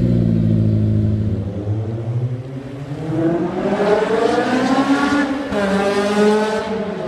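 Honda S2000's inline-four, through an aftermarket exhaust, revved twice in place. Its note settles low, then climbs for about two seconds, drops briefly, climbs again and falls away near the end.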